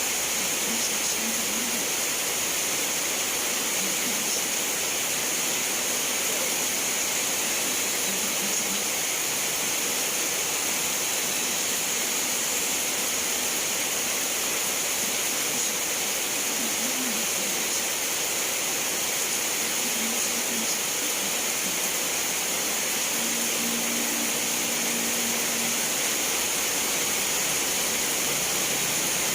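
Steady rain falling: an even, unbroken hiss that neither swells nor fades. A few faint, short low tones come through now and then, most clearly late in the stretch.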